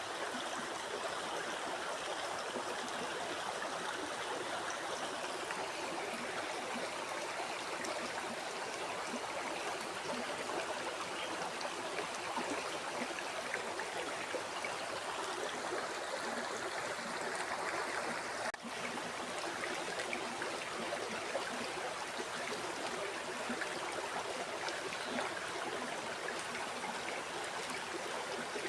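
Flowing river water, a steady, even rush of moving water, broken once by a split-second dropout about two-thirds of the way in.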